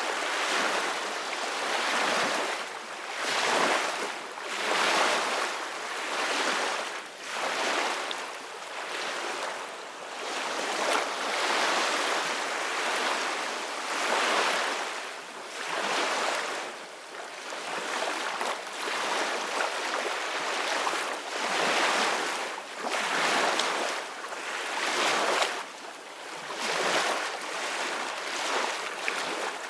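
Ocean waves breaking and washing in, a steady hiss of surf that swells and fades every couple of seconds.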